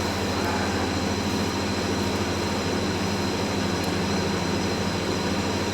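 Steady machine hum with a constant low drone and a faint high whine, unchanging throughout.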